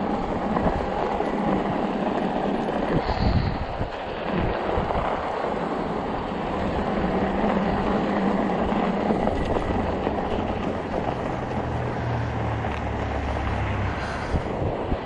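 Fat-tire e-bike rolling over a rough, snowy sidewalk: a steady rumble of the wide tires and frame over packed snow and ice, with a few jolts about three seconds in and a low hum joining about ten seconds in.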